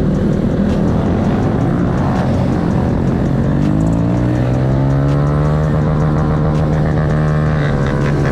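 A motor vehicle engine running, its pitch rising over a couple of seconds as it accelerates, then holding steady.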